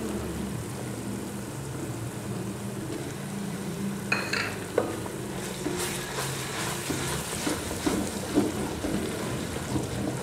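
Golden-fried onion paste sizzling steadily in hot oil in an aluminium pot, with a wooden spoon stirring and scraping through it. A light clink comes about four seconds in, and the scraping ticks grow more frequent in the second half.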